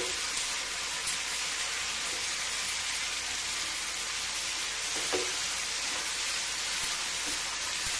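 Onion and tomato masala sizzling steadily in an uncovered frying pan as its own juice cooks off.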